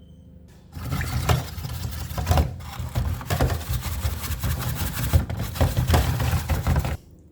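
Steel wool scrubbing inside a washing machine's detergent dispenser tray in rapid, rough back-and-forth strokes. It starts about a second in and stops shortly before the end.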